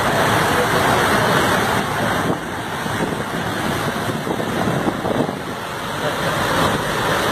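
Vehicles moving through a flooded road: a steady rush of engines and churning water.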